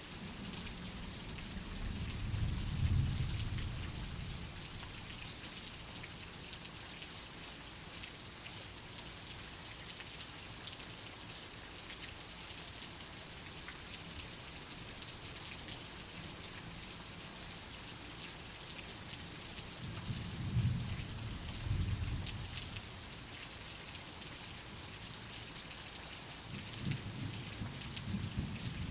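Steady rain with thunder rolling low three times: about two seconds in, around twenty seconds in, and again near the end.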